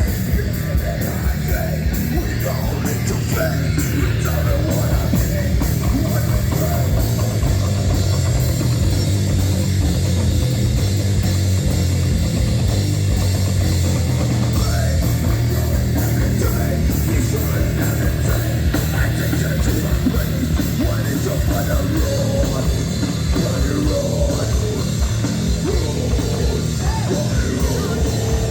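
Heavy metal band playing live through the PA during a soundcheck, with a drum kit and electric guitars, loud and without a break.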